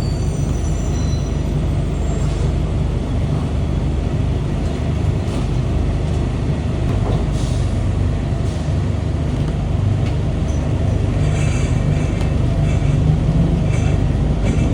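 A Singapore LRT train, a rubber-tyred automated light-rail vehicle, running along its guideway with a steady low rumble. A few faint knocks come in the middle, and a thin high whine rises over the rumble in the last few seconds.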